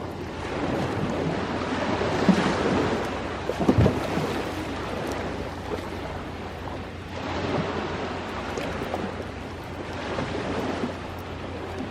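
Ocean waves washing onto the shore in a steady rush that swells twice. A few short low thumps cut through, the loudest about four seconds in.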